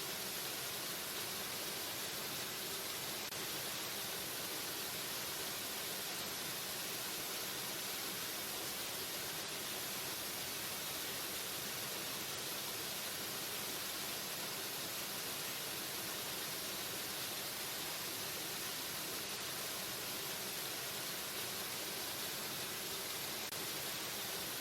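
Waterfall: a steady, unbroken rush of falling water, heavy in the hiss and light in the low rumble.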